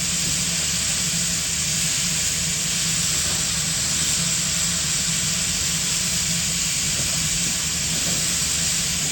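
Steam locomotive standing in a station, giving a steady hiss of escaping steam, with a low steady hum underneath.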